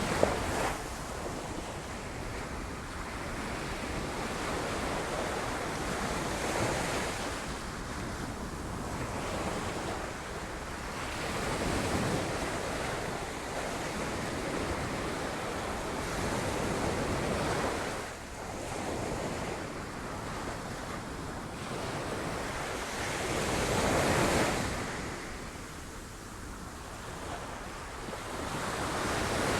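Sea waves breaking on rocks: a continuous wash of surf that swells and ebbs, with louder surges about twelve seconds in, again at about twenty-four seconds, and near the end.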